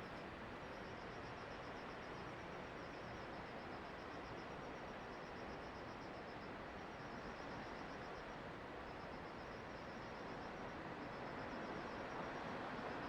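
Steady rushing noise of typhoon wind and rain, with insects chirping high above it in rapid trains separated by short pauses. The rushing grows louder near the end.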